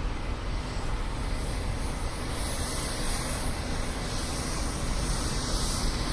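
Jet airliner engine noise: a steady low rumble with a rushing hiss that grows louder about two seconds in and holds, with gusty low rumble on the microphone.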